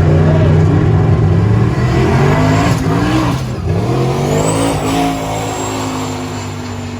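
Race truck engine revving: its pitch rises and falls a couple of times in the middle, a high whine climbs about four and a half seconds in, then it holds steadier while getting gradually quieter.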